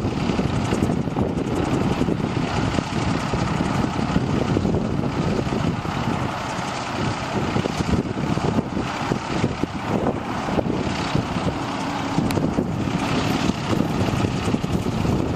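Diesel engine of a 1997 International 2674 crane truck running steadily.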